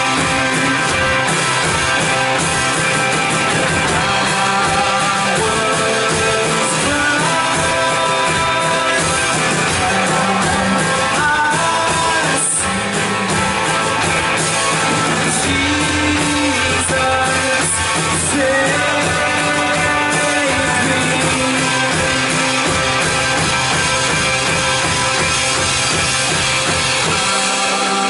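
Live worship band playing an instrumental passage of sustained chords and melody lines, with guitar and drums.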